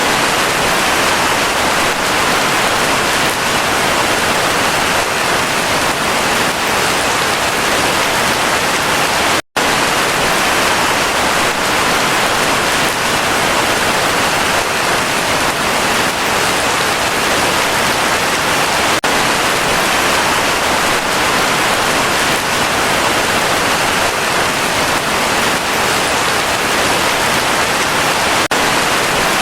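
Heavy rain falling in a steady, dense hiss. It cuts out for an instant about nine and a half seconds in, then carries on unchanged.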